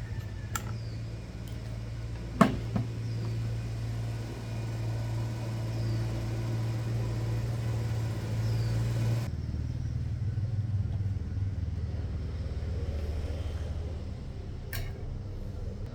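A steady low mechanical hum with a few sharp knocks, the loudest about two and a half seconds in; the hum changes abruptly a little past halfway.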